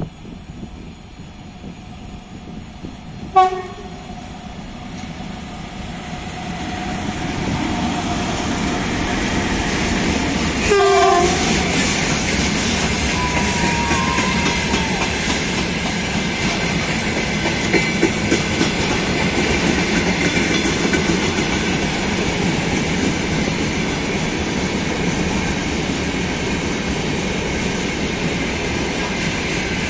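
VL10U electric locomotive hauling a freight train sounds two horn blasts as it approaches: a short sharp one about three seconds in and a longer one just before eleven seconds. The rumble of the train builds and then becomes a steady loud roll of freight wagons passing on the rails, with rhythmic clickety-clack of wheels over rail joints.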